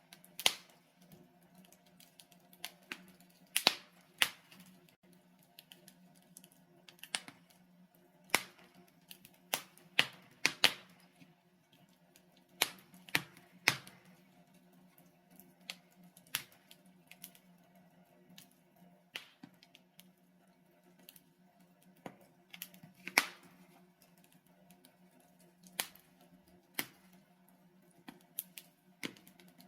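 Logs burning in a fireplace, crackling with irregular sharp pops over a faint steady low hum.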